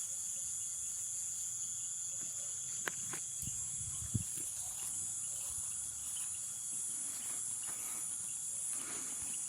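Night chorus of Amazon rainforest insects, crickets among them: a steady, high-pitched, unbroken trilling. Two brief knocks come about three and four seconds in.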